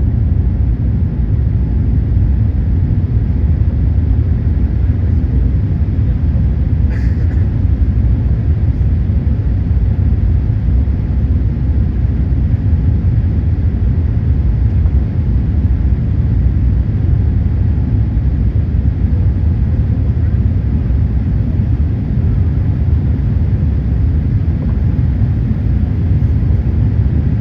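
Cabin noise inside a Boeing 787-8 climbing after takeoff: the steady low rumble of its two Rolls-Royce Trent 1000 engines and the airflow past the fuselage. A brief click about seven seconds in.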